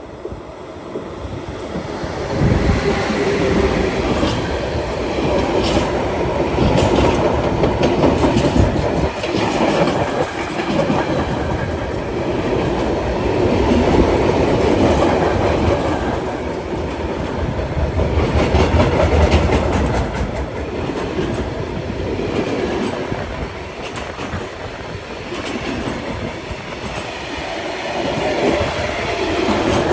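Train passing close by on the line, its wheels clacking over the rail joints; it grows loud about two seconds in and keeps running past.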